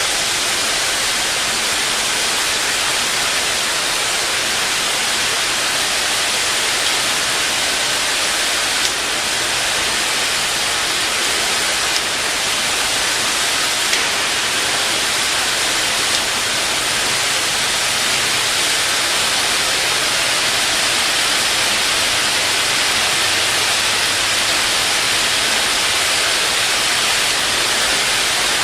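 Soybean microwave drying machine running: a steady, loud hiss-like noise with a few faint clicks.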